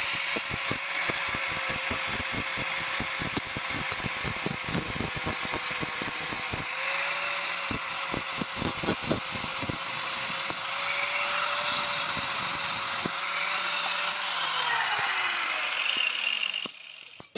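Electric power tool running on steel, with a steady motor hum, a hiss of metal work and rapid chattering clicks. Near the end it is switched off, its pitch falls as it spins down, and it stops.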